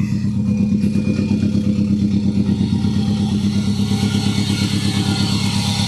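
Subaru Impreza WRX's 2-litre turbocharged boxer engine with a straight-pipe exhaust idling steadily, heard at the open engine bay.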